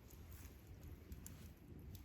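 Faint crackling of a wood campfire: scattered small irregular pops and ticks over a low steady rumble.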